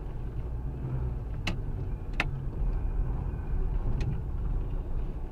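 Car driving, heard from inside the cabin: a steady low rumble of engine and road noise, with a few sharp clicks.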